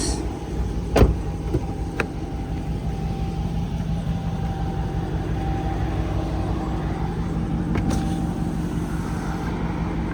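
5.7-litre Hemi V8 of a Dodge Charger R/T idling steadily with a low, even rumble. A sharp knock about a second in and a lighter click a second later cut through it.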